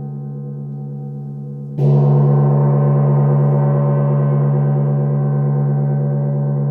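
A gong ringing with a stack of steady overtones and a strong low tone. It is struck again about two seconds in, and the new stroke rings on, slowly fading.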